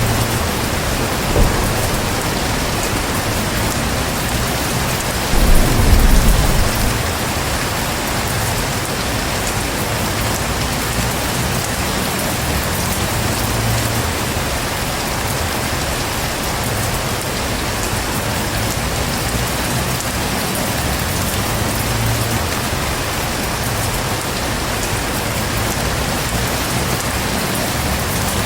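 Heavy rain falling steadily, with a rumble of thunder about five seconds in that lasts a second or two.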